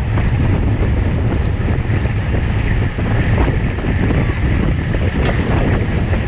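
Wind rushing over the microphone of a camera carried by a racing cyclist at speed, a steady low buffeting.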